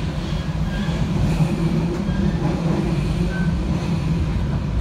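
Argo Parahyangan passenger train, hauled by a CC 206 diesel-electric locomotive, running along the line, heard from aboard a coach: a steady rumble of the wheels on the rails.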